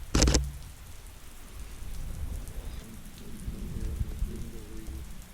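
Steady rain falling on surfaces, with a single sharp click about a quarter second in from the Sony A7IV's shutter firing, picked up through the hot-shoe-mounted action camera.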